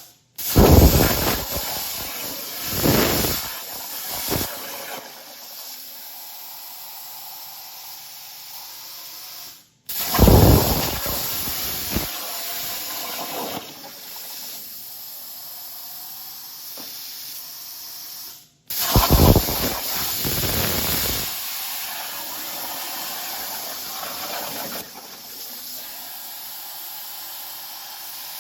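Plasma cutter cutting aluminum sheet: a steady hiss of air and arc. Each stretch opens with a few seconds of louder, rougher sound, and the sound breaks off abruptly twice, about ten seconds in and again near nineteen seconds.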